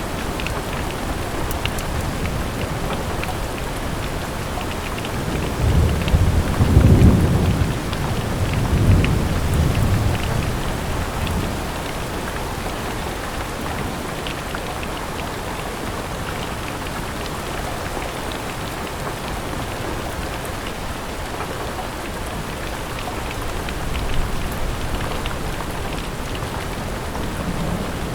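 Steady rain with many small drop ticks. A low rumble of thunder swells about six seconds in and fades over several seconds, and a fainter rumble comes near the end.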